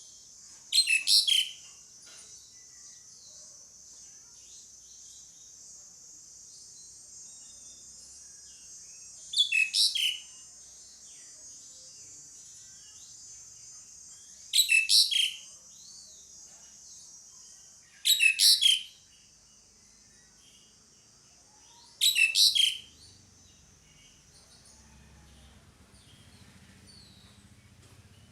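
Asian pied starling giving loud, short calls five times, spaced a few seconds apart. Each call is a quick run of three or four high, harsh notes. A faint steady high hiss runs underneath and fades near the end.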